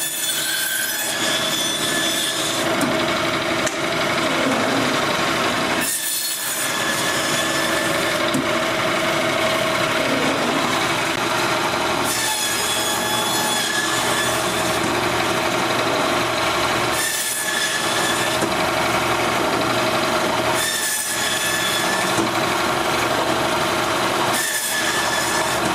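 Meat band saw running steadily while cutting porterhouse and T-bone steaks through the bone. The sound changes briefly every four to six seconds, as each steak is sawn off.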